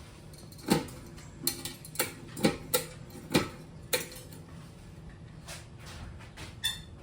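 Seven or so sharp clicks and knocks at an uneven pace over about three seconds, over a faint steady low hum. A brief high squeak comes near the end.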